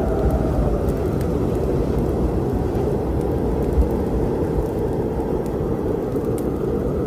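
Storm ambience: a steady wash of rain over a low rolling thunder rumble, with a few faint pops from a wood fire.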